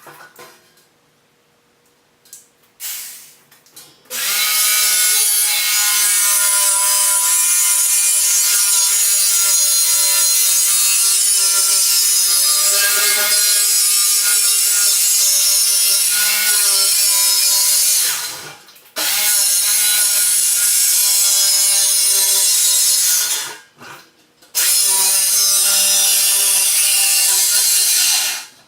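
A power tool running while cutting. It comes in with a couple of brief bursts, then runs steadily in three long stretches with two short stops between them.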